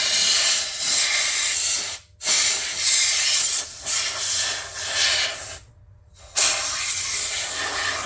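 Compressed air blasting dust and dirt out from behind an electronic segment display: three long hissing blasts with short breaks between them.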